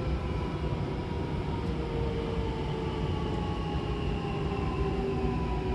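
Hankyu Kobe Line electric train running and slowing, with a heavy rumble and a motor whine of several tones slowly falling in pitch as it brakes.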